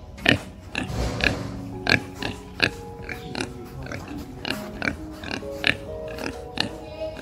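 A group of young pigs giving short, sharp calls in quick succession, about two a second, over soft background music with sustained tones.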